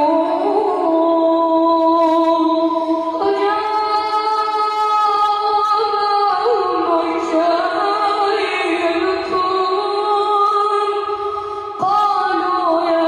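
A man reciting the Quran aloud in a melodic, chanted tajweed style. He draws out long held notes that step and glide between pitches, with a short break for breath about twelve seconds in before a higher note.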